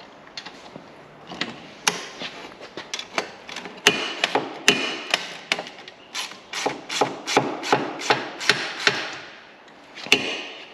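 Hand tools working at a stuck bolt that won't undo: a run of sharp metal clicks and knocks, scattered at first, then about three a second for a few seconds.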